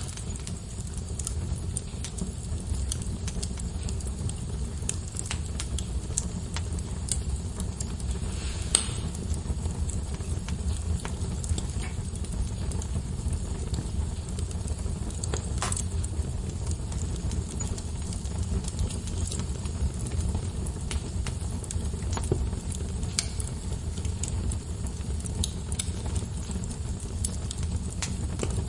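Wood fire burning in a fireplace: a steady low rumble of flames with frequent small crackles and a few sharper pops, the loudest about nine and sixteen seconds in.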